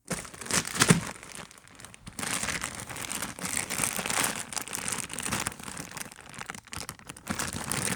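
Crinkling and rustling of jigsaw puzzle packaging being handled and opened, with many small clicks and scrapes throughout.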